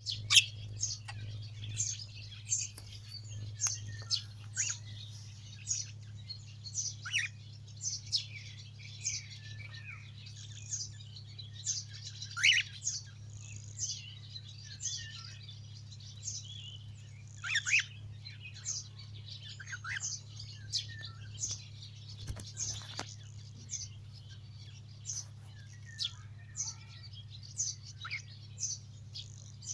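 Pet budgerigars and cockatiels giving short, sharp chirps about once a second, over a steady low hum.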